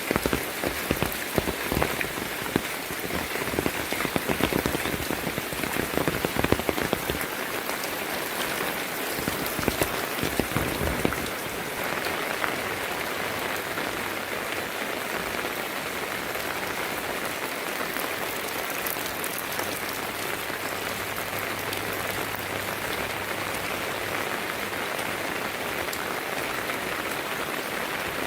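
Heavy rain falling on a surface. For the first ten seconds or so it is full of sharp, close drop impacts, then it settles into an even, steady hiss with a faint low hum through the middle.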